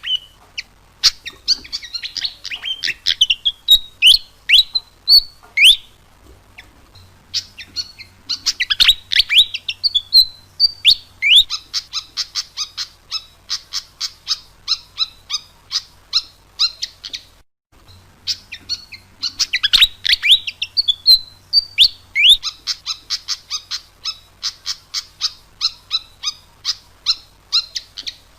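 Malaysian pied fantail singing: a burst of sharp notes sweeping up and down, then a long, quick, even run of short high notes. The song stops briefly a little past halfway, then the same phrase starts again.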